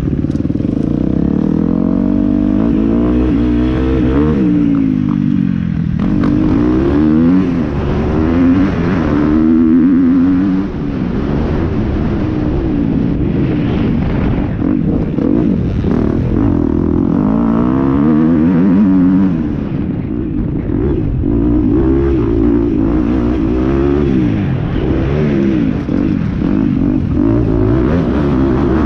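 Motocross motorcycle engines revving up and falling back again and again, the pitch climbing and dropping every second or two as the bikes accelerate and shift.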